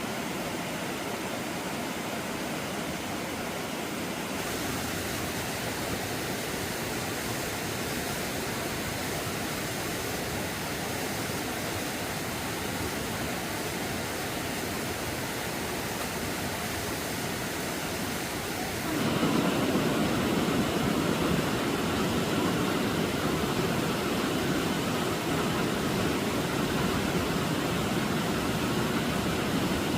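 Stream water rushing steadily, growing louder and fuller about two-thirds of the way in.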